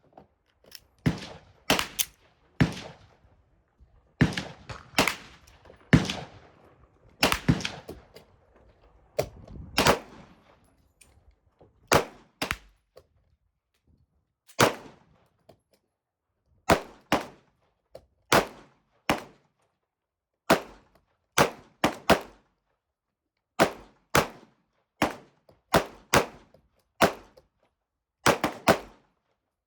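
A long, irregular series of sharp bangs, roughly one to two a second, each dying away quickly; those in the first third ring on longer than the later ones.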